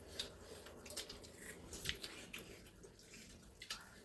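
Faint, scattered clicks and small smacks of people eating a meal, over a low background hum.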